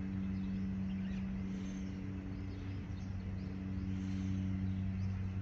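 A steady low hum of a few held tones over a soft, even rushing noise, unchanging throughout.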